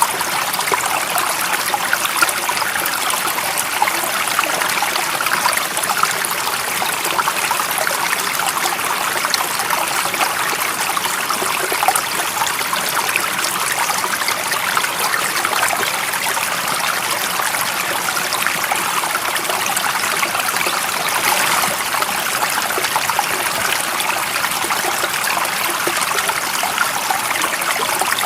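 Stream water running steadily over rocks, a continuous babbling and trickling with no break or change.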